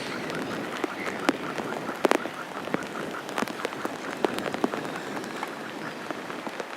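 Silver gulls calling in fast runs of short repeated notes, over a steady hiss of noise with scattered sharp clicks.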